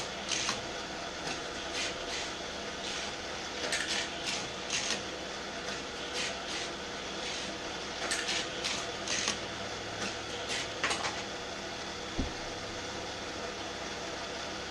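Vintage Hot Wheels Super-Charger Grand Prix race set running: the battery-powered booster's motor whirring steadily while die-cast cars are shot around the orange plastic track, with many short sharp zips and clicks as they pass, and one low thump about twelve seconds in.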